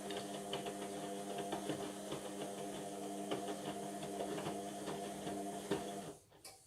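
Indesit washing machine running mid-cycle: a steady motor hum with irregular clicks and knocks over it, which stops abruptly about six seconds in.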